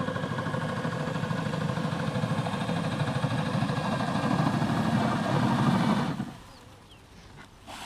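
Homemade boat motor driven by a cordless drill-driver, running steadily and growing slightly louder, then cutting off about six seconds in.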